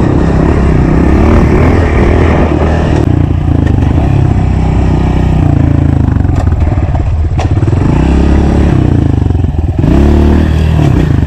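Honda CRF125 pit bike's single-cylinder four-stroke engine running while being ridden, its pitch rising and falling as the rider revs on and off the throttle, with a few short clicks.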